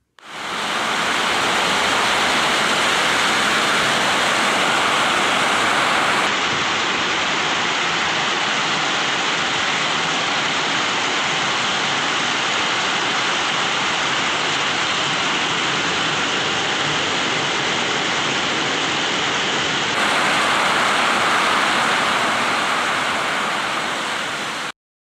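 Heavy rain falling in a steady loud rush. Its tone shifts slightly about six seconds in and again about twenty seconds in, and it cuts off abruptly near the end.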